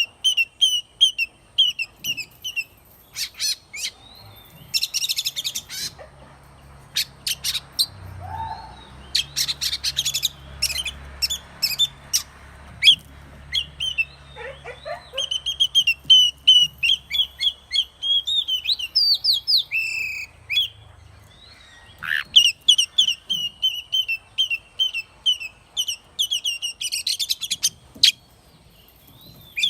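Oriental magpie-robin singing: long runs of quick, short, repeated whistled notes, broken now and then by brief harsh chattering bursts.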